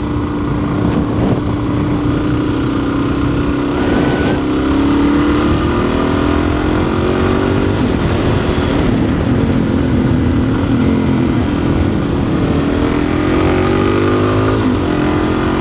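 Dual-sport motorcycle engine running under way, its pitch rising and falling several times as the rider accelerates and backs off, with wind noise on the microphone.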